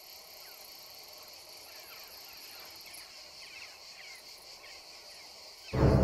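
Steady, high-pitched chirring of insects, typical of an evening cricket chorus. Loud, ominous music comes in suddenly near the end.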